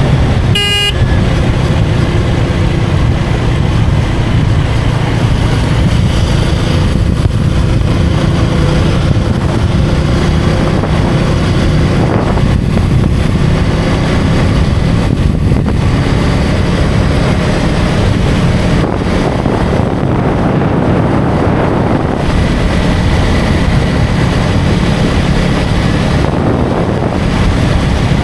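KTM Duke 250's single-cylinder engine running at riding speed under heavy wind noise, its pitch shifting slightly as the throttle changes. A short vehicle horn toots once about half a second in.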